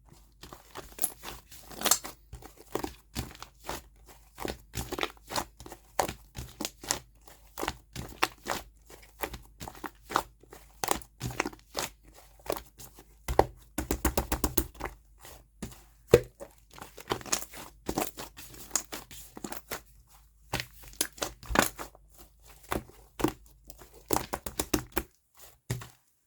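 Cotton-candy clay slime being squeezed, poked and pulled, giving a dense run of crackling clicks and small tearing crunches. The sound is busiest about halfway through.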